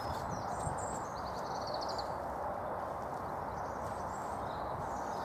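Steady outdoor background noise with small birds chirping, including a short rapid trill about two seconds in, and faint scuffing of soil being firmed by gloved hands around a newly planted raspberry cane.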